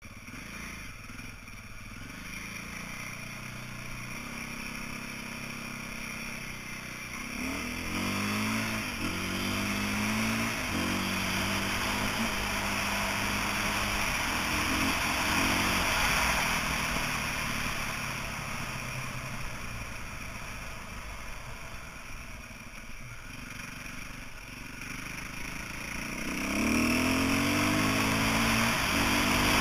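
2008 KTM 450 EXC's single-cylinder four-stroke engine running under way on a dirt track, revving up in rising sweeps about eight seconds in and again near the end, where it is loudest, over a steady rushing noise.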